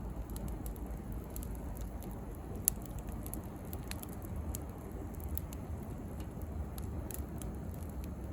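Bonfire of dry branches crackling, with scattered sharp pops over a steady low rush of the flames; one pop, about a third of the way in, is much louder than the rest.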